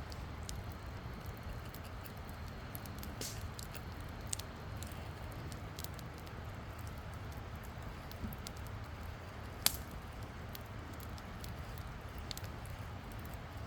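Wood campfire crackling, with sparse sharp pops of burning wood over a low steady rumble; one pop stands out about ten seconds in.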